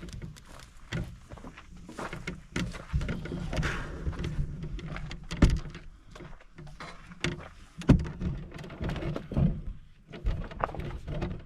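Irregular knocks and clunks of things being handled and set down, two of them sharper about five and a half and eight seconds in.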